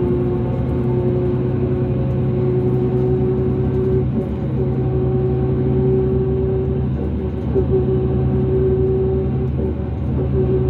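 Interior sound of a 2005 New Flyer D40LF transit bus under way: its Cummins ISL diesel drones steadily, with a strong steady whine riding above it that fits the weird axle noise this bus is noted for.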